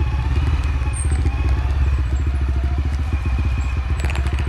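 Off-road motorcycle engine running steadily under way on a dirt road, with a brief rattle about four seconds in.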